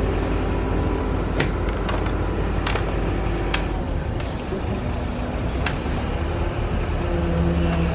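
Heavy diesel work machinery running steadily, its engine pitch shifting a little as it works. A few sharp knocks sound at irregular intervals over it.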